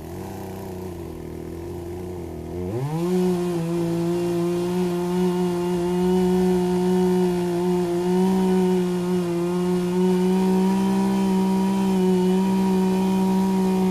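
Poulan 18-inch two-stroke gas chainsaw idling, then revving up sharply about three seconds in and running steadily at full throttle, cutting into a tree stump.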